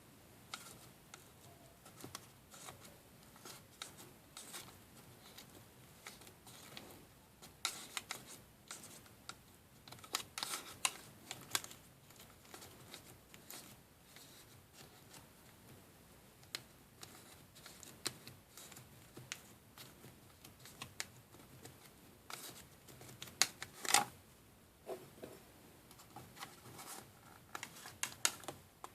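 Scattered light clicks, taps and scrapes from small plastic pieces of a DIY candy kit being handled, coming in clusters with the sharpest tap a little before the end.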